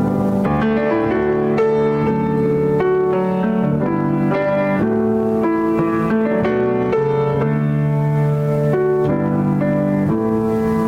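Slow instrumental music led by piano, with long held chords changing about once a second.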